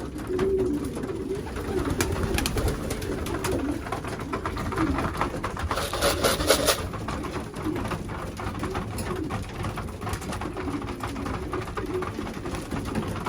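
Racing pigeons cooing continuously in a small loft, with a short noisy rustling burst about six seconds in.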